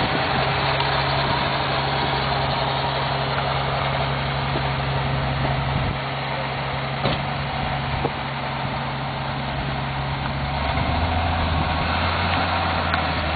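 1986 Toyota FJ60 Land Cruiser's engine running steadily; its low note drops in pitch about eleven seconds in.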